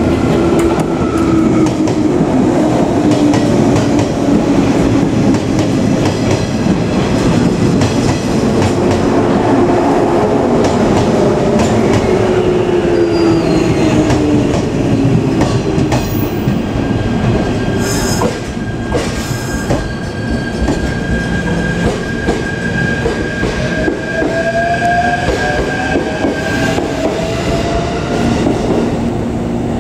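Shinano Railway 115 series electric train rolling in and braking to a stop, its motor and gear whine sliding down in pitch as it slows, with wheels clacking over the rail joints. A thin, steady high squeal runs through much of the second half.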